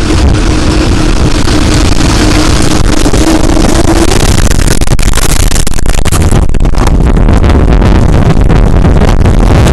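Very loud wind noise from a tornado buffeting the microphone, with a deep rumble. A steady hum underneath stops about four seconds in, and scattered sharp knocks and cracks follow through the second half.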